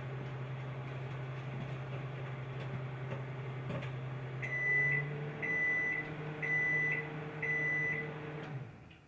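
Microwave oven running with a steady hum, then four high beeps about a second apart as the cook timer finishes; the hum stops just after the last beep.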